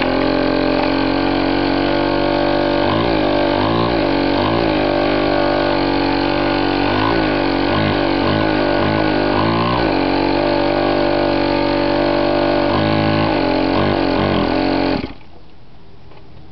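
Chinese 50cc two-stroke pocket bike engine running, revved in a series of short throttle blips. It cuts off abruptly near the end. It is running on a replaced, cleaned carburetor that cured its hard starting.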